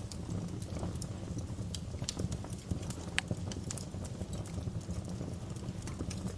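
Wood fire in a fireplace crackling, with irregular sharp pops over a steady low rumble of the flames; one louder pop about three seconds in.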